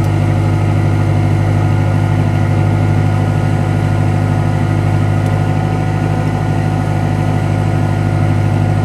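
1991 Honda Civic's original D15 single-cam four-cylinder engine idling steadily, still cold after a start at −25 °C.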